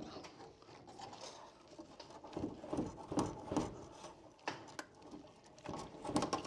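Fish tape and electrical cable being worked through a wall cavity: irregular scraping, rustling and short clicks from hands handling the tape and wire.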